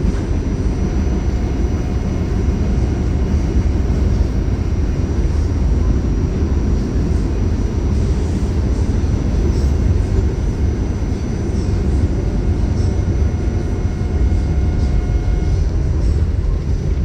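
A steady low rumble with a faint steady hum over it, going on without a break.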